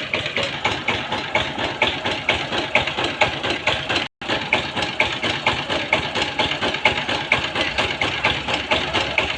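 Power tiller engine running with a steady, rapid knocking beat. The sound cuts out for an instant about four seconds in.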